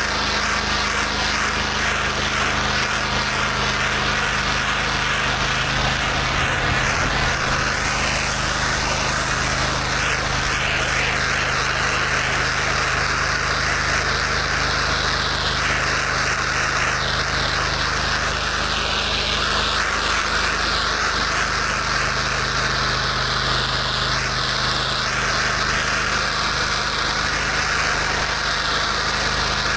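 Pressure washer's engine running steadily under load, with the continuous hiss of high-pressure water spraying.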